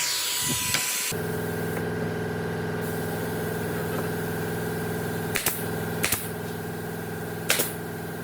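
Sawing noise for about the first second, then a machine motor running with a steady hum, with four sharp knocks or taps over its last few seconds.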